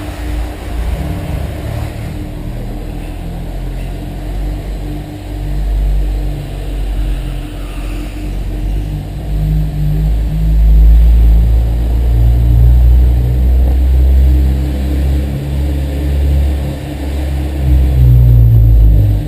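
Honda S2000's four-cylinder engine and exhaust as the car is driven gently at low speed, revs rising and falling, louder in spells around the middle and near the end.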